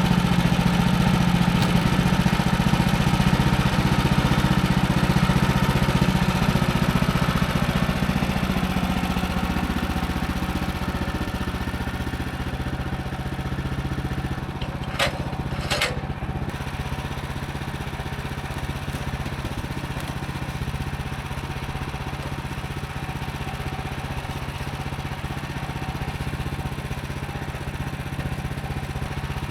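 Woodland Mills HM130 MAX bandsaw mill's gasoline engine running steadily while milling a log. It is loud for the first ten seconds or so, then eases off and runs quieter. Two sharp clicks come about halfway through.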